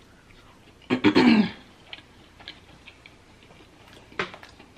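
Close-miked chewing of fried food with the mouth closed: soft crunches and small wet mouth clicks, with a short hummed vocal sound about a second in and a sharper click near the end.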